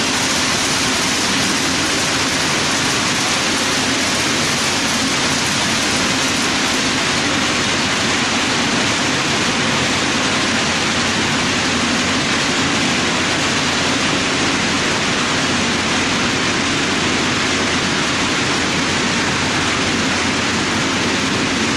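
Steady rushing noise of an HO-scale model train, three GP7 locomotives and a long string of 40-foot reefers, rolling along the track, even and unbroken throughout.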